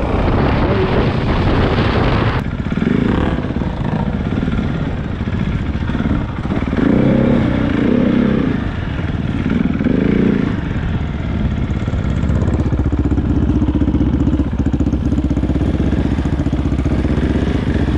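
KTM 690 enduro motorcycle's single-cylinder engine, at first under a rush of riding noise, then revving in several short bursts and settling to a steadier, lower running note for the last few seconds.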